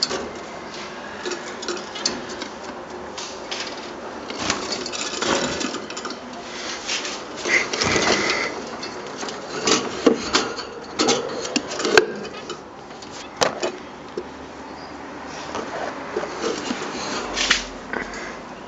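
Caged finches and canaries moving about: an irregular clatter of small clicks, taps and flutters on perches and cage wire, with a brief high call about eight seconds in.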